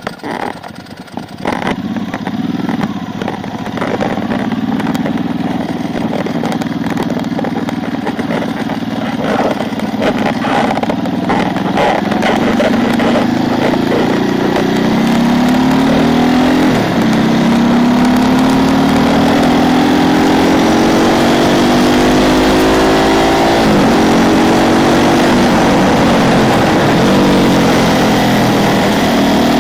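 Ducati 999's 90-degree V-twin engine heard from on board the motorcycle. It runs steadily at low revs for the first half. It then accelerates hard, its pitch rising and dropping sharply at each of several upshifts.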